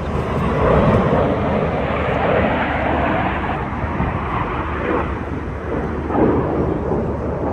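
A loud, steady roar of a jet aircraft flying over, swelling about a second in and holding without a clear engine note.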